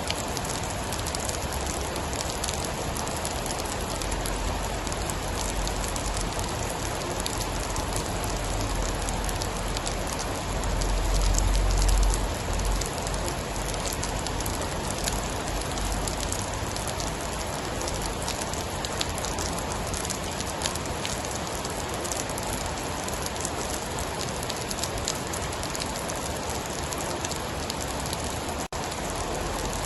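Steady heavy rain pattering on a surface, with many fine drop ticks. A low rumble of distant thunder swells from about four seconds in and peaks around twelve seconds before fading back under the rain.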